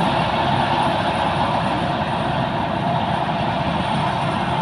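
Sakpattana KM-D rice combine harvester running steadily, a loud continuous drone of its engine and machinery.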